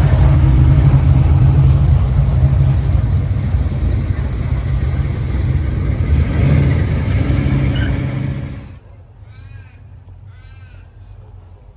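Supercharged V8 of a Holden Monaro GTS running loud and steady, with a slight rise about six seconds in, then cutting off abruptly near nine seconds. Two short caws follow.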